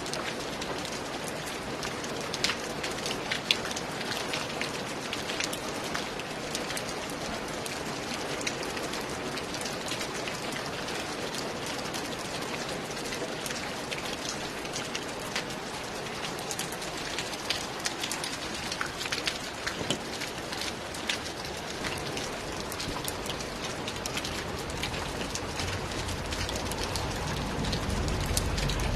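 Steady rain, with many single drops ticking sharply on top of the hiss. A low rumble builds in near the end.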